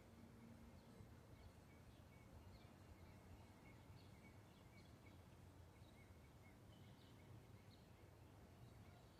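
Birds chirping faintly: short high calls every second or so, over a low steady background rumble.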